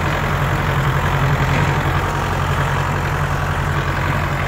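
Tractor diesel engine running steadily at low speed, a loud, even, rapid chugging with no change in pace.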